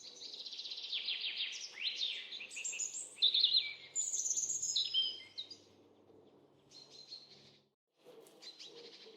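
Small songbirds chirping and singing: a fast, varied run of trills and whistles for about five seconds, then softer, shorter calls, broken by a brief silent gap near the end.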